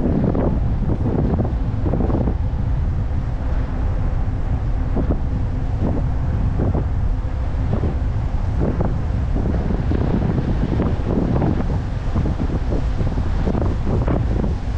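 Wind buffeting the microphone of a camera riding on a moving e-bike: a steady heavy low rumble with irregular gusts throughout.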